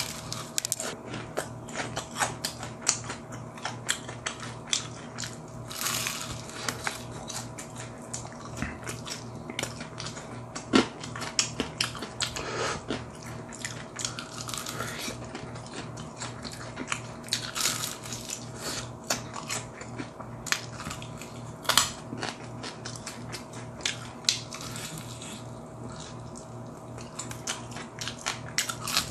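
Close-up crunching and chewing of crispy fried chicken: many sharp crackles from bites into the fried coating and from chewing. A faint steady hum runs underneath.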